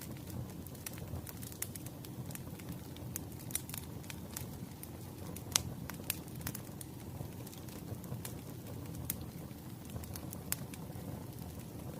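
Firewood burning: a steady low rumble of the fire with irregular sharp crackles and pops, the loudest pop about five and a half seconds in.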